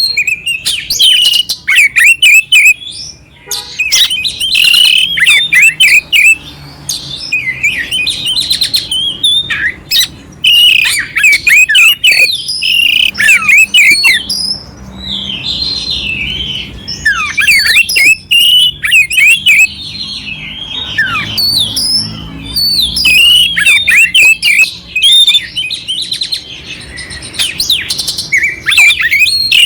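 Oriental magpie-robin (kacer) singing loudly and continuously: a varied song of quick, sweeping whistles mixed with harsh, scratchy notes, broken by short pauses.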